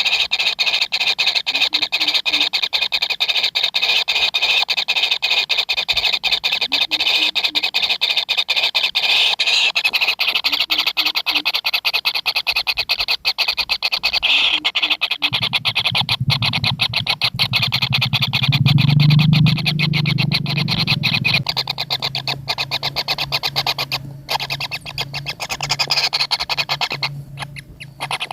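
Kingfisher nestlings calling with a fast, continuous pulsing buzz. A low hum joins about halfway through.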